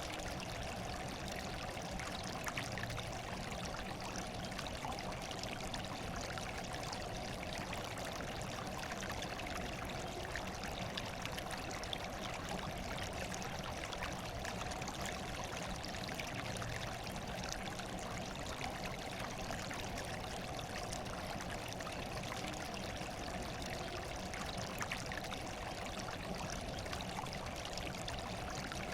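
Running water flowing steadily, an unbroken even rush that does not change.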